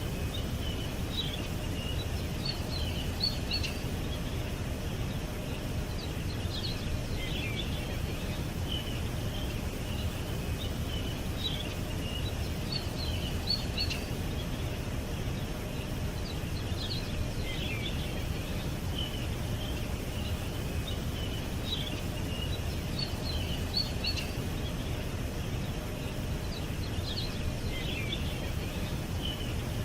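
Small birds chirping and twittering in short clusters over a steady low rumble of background noise. The same run of calls, ending in a short falling chirp, recurs about every ten seconds.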